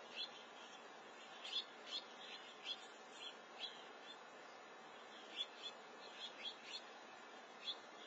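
Small birds chirping: about a dozen short, high chirps scattered irregularly over a faint steady hiss.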